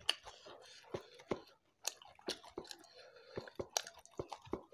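Close-up chewing of a mouthful of rice and balado shrimp, with a quick run of wet smacks and clicks.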